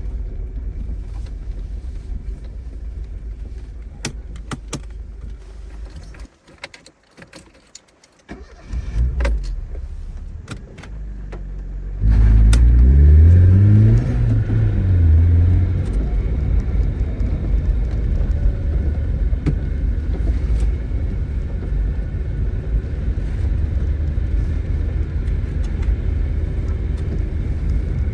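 A Tofaş Doğan SLX's engine idles, is switched off about six seconds in, and after some clicks is started again near the middle. It revs up briefly, falls back, and settles into a steady idle.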